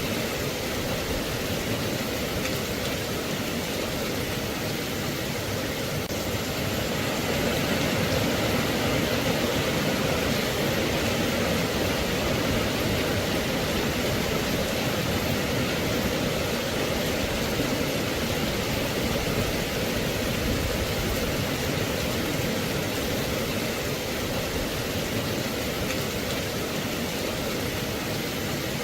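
Steady rain falling as an even, continuous hiss, a little louder from about seven seconds in.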